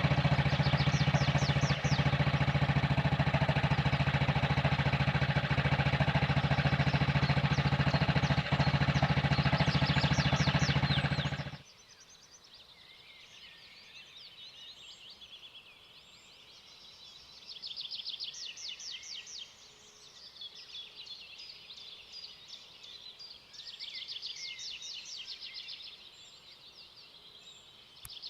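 Restored antique motorcycle engine idling steadily, then stopping abruptly about twelve seconds in. Afterwards birds chirp in repeated high trills, in bursts.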